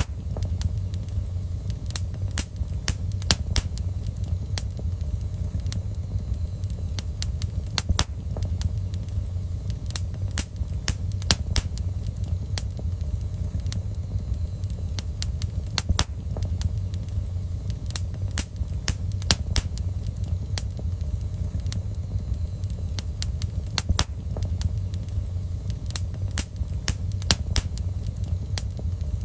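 Wood fire crackling in a fireplace: irregular sharp pops and snaps, sometimes in quick clusters, over a steady low rumble.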